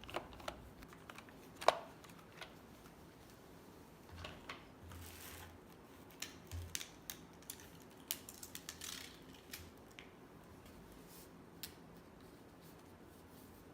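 Vacuum cleaner attachments being handled: scattered light clicks and rustles, with one sharp click just under two seconds in and a flurry of clicks in the middle, quieter toward the end.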